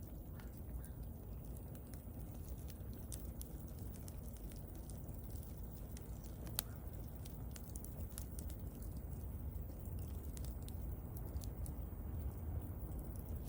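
Wood fire crackling: scattered small snaps and pops over a low steady rumble, with one sharper pop about six and a half seconds in.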